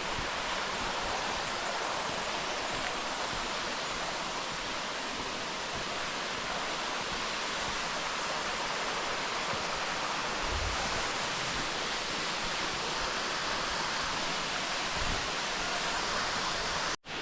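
Steady rushing of falling water from a waterfall or creek, even and unbroken; it cuts out abruptly for an instant near the end.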